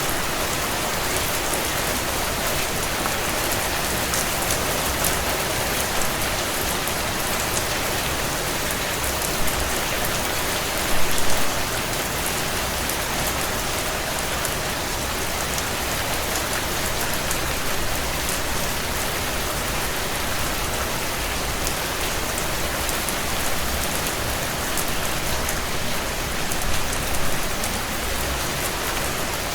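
Heavy rain falling steadily on a tin roof, an even hiss with a fine patter of drops, briefly louder about eleven seconds in and again near the end.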